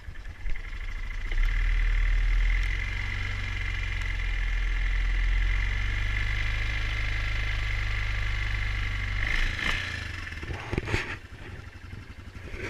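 2004 Yamaha Kodiak 450 ATV's single-cylinder four-stroke engine running steadily. It drops away about nine and a half seconds in, followed by a few knocks.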